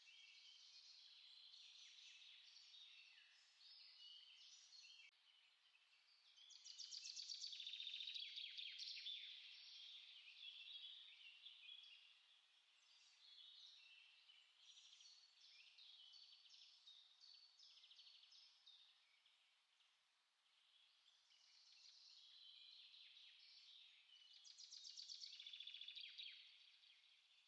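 Many small songbirds singing and chirping together, a busy, overlapping chorus of high twitters and trills, with denser, louder bursts about seven seconds in and again near the end.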